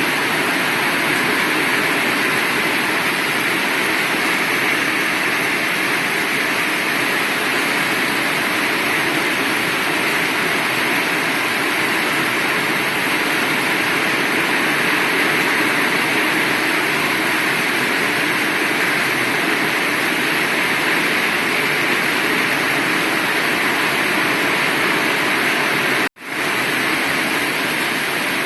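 Heavy rain falling steadily, a dense even hiss. About 26 seconds in it cuts out for a split second and returns at once.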